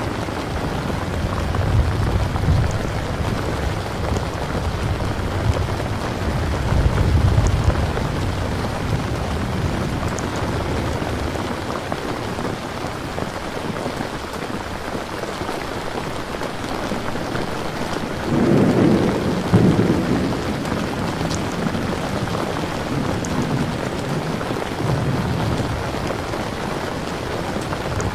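Steady heavy rain with rolling thunder: low rumbles swell a couple of seconds in and again around seven seconds, and a louder roll comes about two-thirds of the way through.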